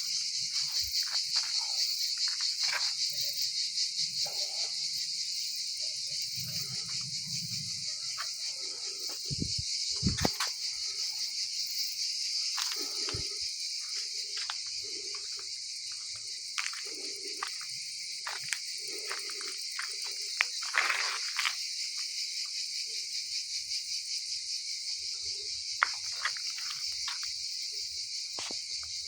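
Dense insect chorus chirring continuously in a high, rapidly pulsing drone, with a few faint knocks and rustles scattered through it.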